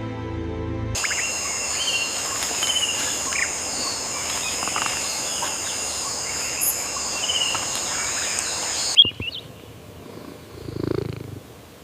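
Rainforest ambience: a steady high-pitched drone with birds chirping over it, starting about a second in and cutting off abruptly near the end. Low pulsing rumbles of an animal follow.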